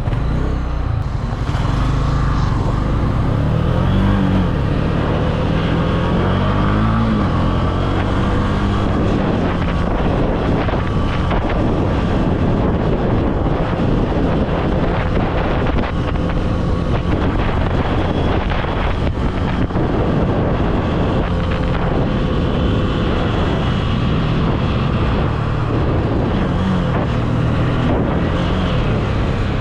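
Honda CB300F single-cylinder motorcycle engine running while riding, its revs rising and falling a few times, with wind buffeting the microphone.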